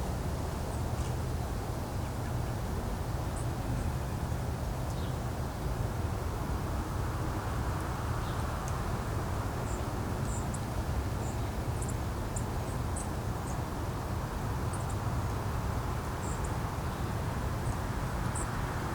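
Steady wind noise with a low rumble, and short high chirps of small birds scattered through it, more frequent from about ten seconds in.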